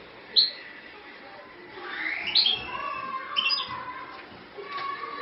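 Small birds chirping: short, sharp high chirps about half a second, two and a half and three and a half seconds in.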